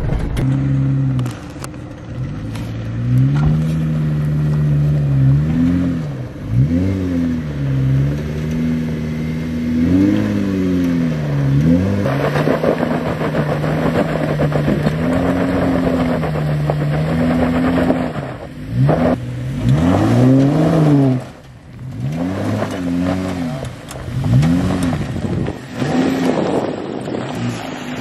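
Jeep Wrangler engine working over a rocky off-road trail, holding steady for stretches and revving up and back down in short bursts again and again.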